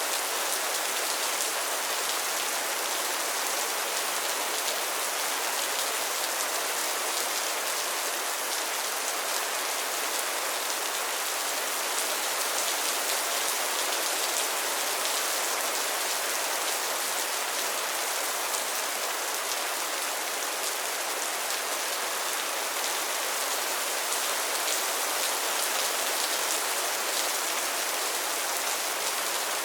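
Steady rain falling on a pond and its lily pads: a constant hiss of many fine drop patters on water and leaves.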